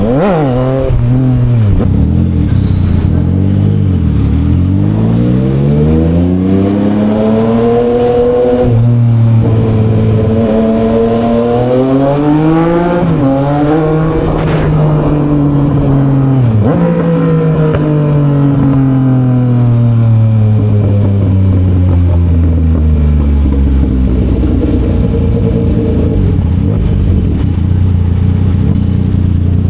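Yamaha XSR900 inline-three engine through an SC Project exhaust, accelerating through the gears: the engine note climbs, drops sharply at each shift, and climbs again. After about two-thirds of the way through the revs fall away in one long slow-down and settle to a steady low run near the end.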